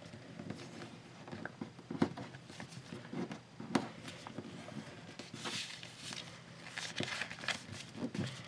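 A sheet of paper being handled, folded and creased by hand: scattered light taps and crinkles with a few short rustles.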